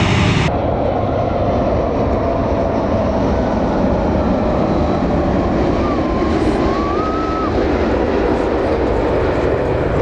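Train running, a steady loud rumble of rail and running noise, with a faint wavering high tone for a few seconds midway.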